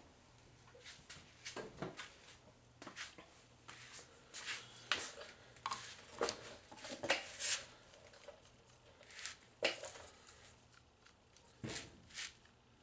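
Irregular clicks, clinks and knocks of vending-machine rotor and gearbox parts being handled, with a faint low hum in the background at times.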